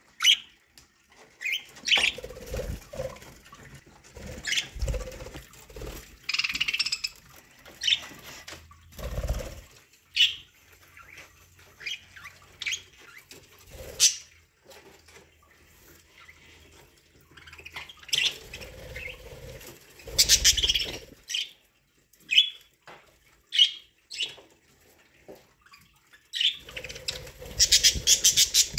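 Budgerigars giving short chirps and squawks, mixed with brief clicks, scrapes and a few soft thumps, ending in a quick run of clicks.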